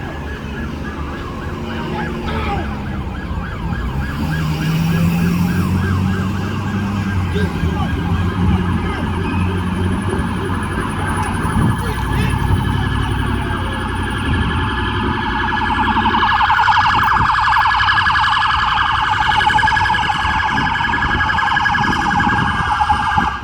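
Emergency vehicle siren sounding in a fast warble, growing louder and strongest in the last several seconds before it cuts off at the very end, over a low rumble.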